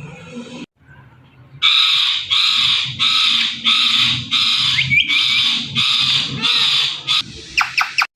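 Indian ringneck parrot giving a long run of harsh, rasping squawks, about two a second, followed near the end by a few short, sharp calls that drop in pitch.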